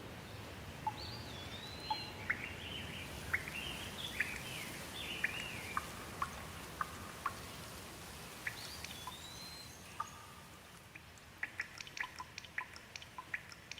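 Steady rain with a bird calling over it, sweeping whistled and chirping notes in the first half and again about nine seconds in. Near the end the rain eases and single water drops fall in quick, distinct patters.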